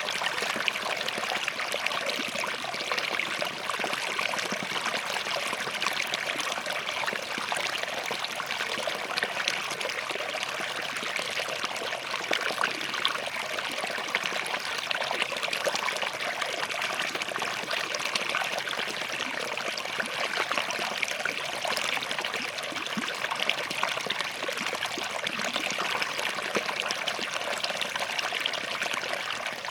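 Small forest stream running over rocks, a steady trickling and splashing flow.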